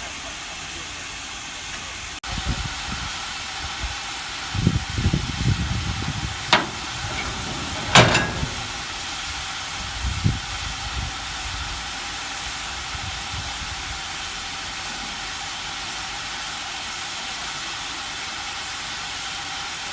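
Steady hiss of steam from a steam locomotive, broken by a few low knocks and two sharp metallic clanks, the louder one about eight seconds in, with another low thump a couple of seconds later.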